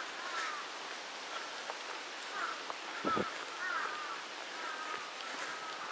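Birds calling outdoors in short chirps and downward-gliding notes over a steady background hiss, with a single thump about three seconds in.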